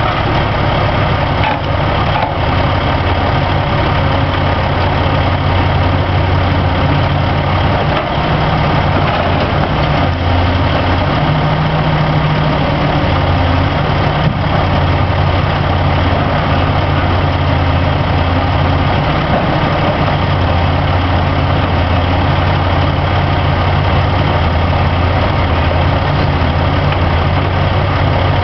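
Heavy diesel engine running steadily, its low note swelling and easing every few seconds, with a few faint knocks.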